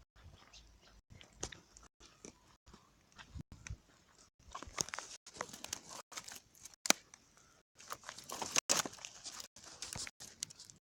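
Bonfire crackling, with irregular sharp snaps and pops that come thicker and louder in the second half.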